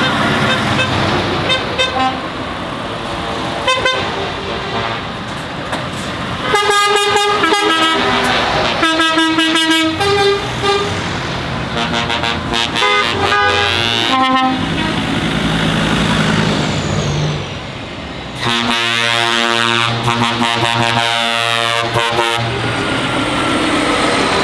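Lorries passing in convoy with their engines running and sounding their horns: short blasts about a third of the way in, and a longer horn of several seconds about three-quarters of the way through.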